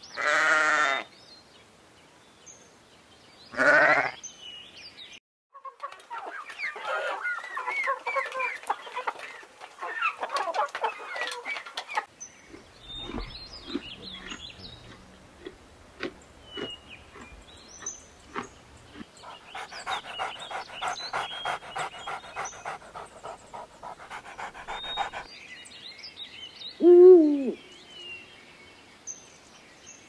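A series of farm animal calls: a loud bleat at the start and another about four seconds in, then several stretches of overlapping animal and bird calls and chirps. Near the end comes one loud call that falls in pitch.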